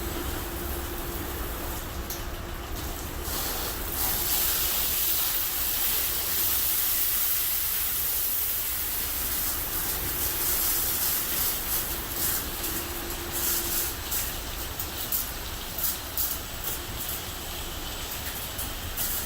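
Belanger FreeStyler automatic car wash running: a steady machine hum, with a loud hiss rising about four seconds in and holding for about ten seconds, then breaking into short, uneven bursts of hiss near the end.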